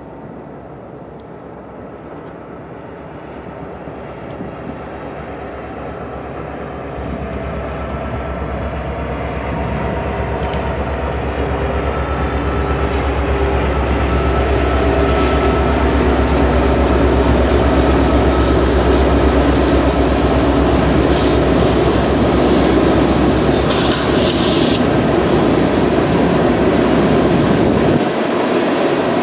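BNSF coal train with diesel locomotives approaching and passing close by. The rumble and rail noise grow steadily louder for about fifteen seconds, then hold as the loaded coal hoppers roll past on the curve, with a faint high wheel squeal. The deep rumble drops away shortly before the end.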